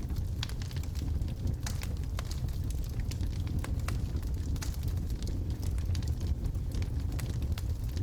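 Wood logs burning in a fireplace: a steady low rumble of the flames with many irregular sharp crackles and pops.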